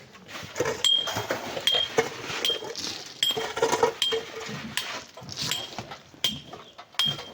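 Metal hand digging tool striking hard ground in a steady rhythm, about one short ringing clink every three-quarters of a second.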